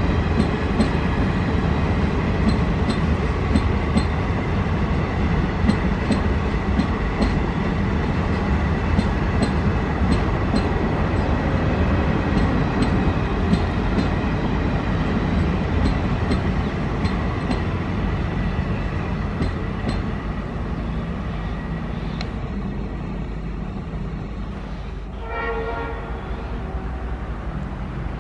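Passenger coaches of a train rolling past: a steady rumble of wheels on rail with a regular clicking, about two clicks a second, fading as the train draws away. Near the end a short pitched tone sounds.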